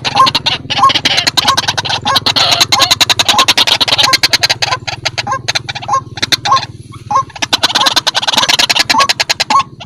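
White-breasted waterhen (ruak-ruak) calling loudly: short hooked croaking notes about twice a second over a rapid clicking chatter, with a brief pause about seven seconds in. This is a lure call played to attract waterhens.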